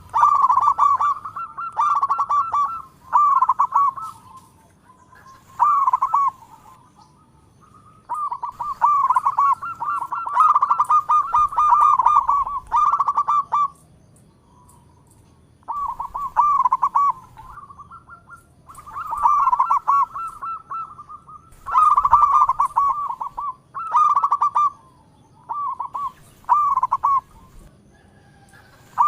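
Zebra dove (perkutut) cooing: repeated phrases of quick, trilling coos on a steady pitch, each phrase a second or two long, with short pauses between.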